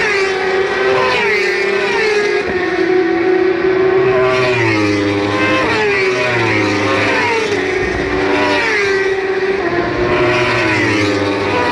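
A stream of JSB1000 superbikes, inline-four 1000 cc race machines, passing at full throttle one after another with several engines heard at once. Their high-revving notes fall in pitch several times as bikes go by.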